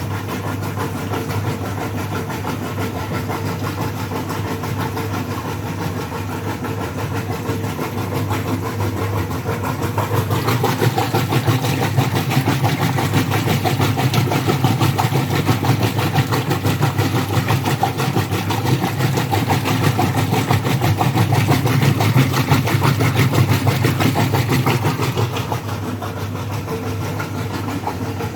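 A motor running steadily with a low hum, getting louder about ten seconds in and easing back near the end.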